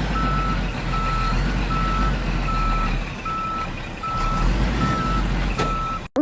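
A vehicle's reversing alarm beeping steadily, about eight single-pitch beeps a little under a second apart, over a loud low rumble.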